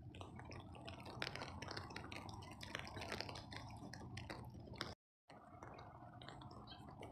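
Rain falling, with many small drops ticking sharply close to the microphone over a steady wash of rain. The sound cuts out completely for a moment about five seconds in.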